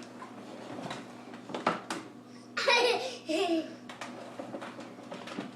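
A young child laughing briefly, about two and a half seconds in, with a few light knocks shortly before.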